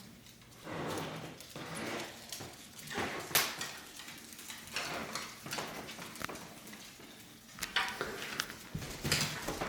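Irregular scuffs and sharp clicks of a dog and a parrot walking on a hard floor.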